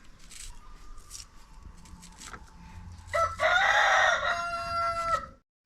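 Rooster crowing: one loud, drawn-out crow starting about three seconds in and lasting about two seconds, cut off abruptly at the end.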